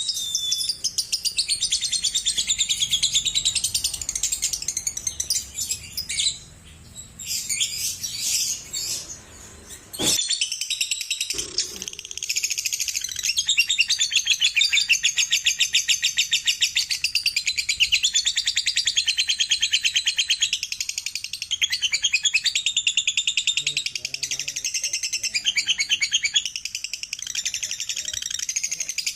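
Lovebird chattering in its long, very fast trilling song (ngekek), high-pitched rapid notes running on in long strings with a short lull about a quarter of the way in. A single sharp click about a third of the way in.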